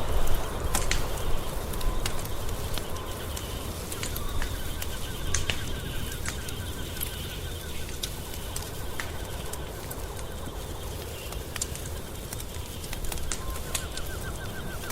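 Wood fire crackling, with irregular sharp pops and snaps over a low steady rumble. A faint, rapid, evenly ticking trill comes in twice, once in the middle and again near the end.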